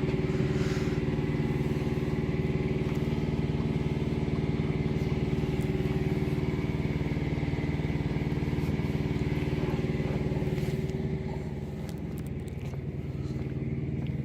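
Freightliner semi truck's diesel engine idling steadily, heard from close to the open engine bay; it gets a little quieter near the end.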